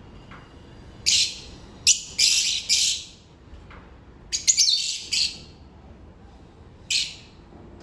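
Lovebirds giving loud, harsh, high-pitched chirps in short clusters, about seven calls in all, with a last single call near the end.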